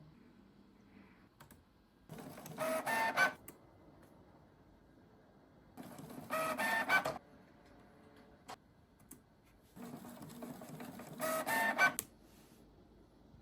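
Desktop printer printing: three whirring motor runs about four seconds apart, each with a pitched whine that grows louder near its end, with quiet pauses between them.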